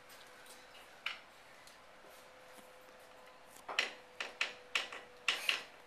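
A quick, uneven run of about six sharp knocks or taps on a hard surface, after a single click about a second in, over a faint steady hum.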